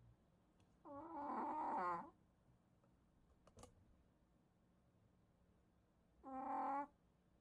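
A sleeping pet dog snoring: two squeaky, pitched snores, one lasting about a second starting about a second in and a shorter one near the end, with quiet breathing between.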